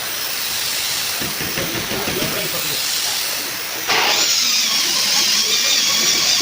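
Compressed air hissing from a workshop air gun: a steady hiss, then a much louder, sharper hiss starting about four seconds in as the gun is triggered.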